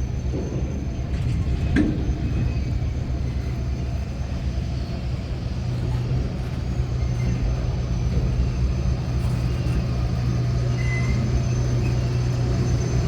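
CP Holiday Train rolling past with a steady low rumble that grows a little louder toward the end, and a single sharp knock about two seconds in.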